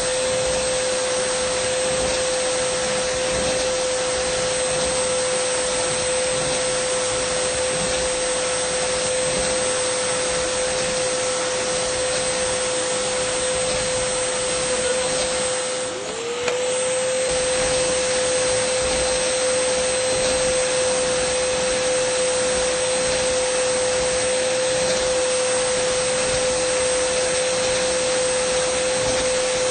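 Dyson vacuum cleaner running steadily: a rushing of air over a steady whine. About halfway through, the whine briefly dips in pitch and loudness, then comes straight back up.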